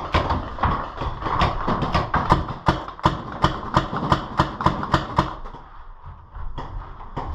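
Paintball markers firing in rapid succession, a quick string of sharp pops about three to four a second that stops about five seconds in.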